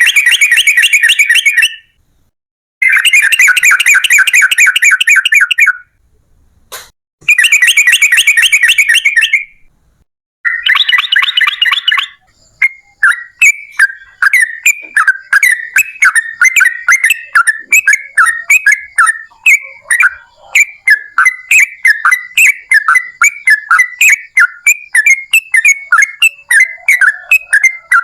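Yellow-vented bulbul (trucukan) song: first several loud bursts of dense, rapid trilling a second or three long with short gaps, then, about halfway through, a long unbroken run of short, quick chattering notes, about three a second.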